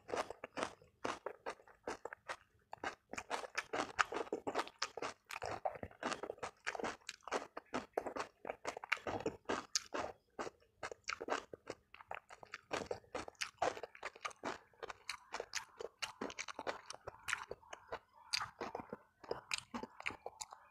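Close-miked chewing of a hand-eaten rice meal with fried tempe: a steady run of crunching and wet mouth clicks, several to the second.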